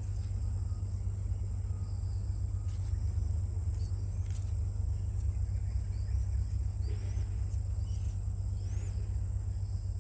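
A steady low rumble runs throughout. Over it is a continuous thin high whine, and several short, high, rising bird chirps come every second or so.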